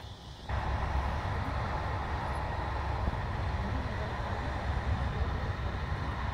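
TER regional train running on the line, heard from inside the carriage: a steady rumble with rail and wheel noise, which gets suddenly louder about half a second in.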